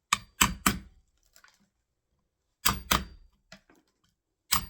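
Chisel being struck to chop out the recess for a door latch's strike plate in the door frame: sharp knocks in quick groups, three near the start, two more with a lighter tap in the middle, and two near the end.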